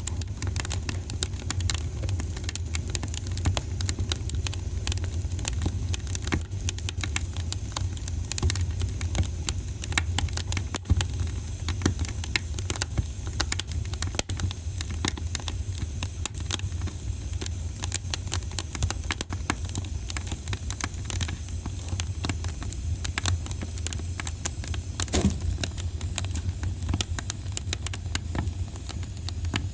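Wood fire burning in a fireplace: a steady low rumble of flame with dense, irregular crackling and popping, and one sharper pop near the end.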